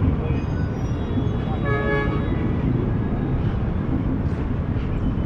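Steady city street traffic: cars and engines passing, with a short vehicle horn toot about two seconds in.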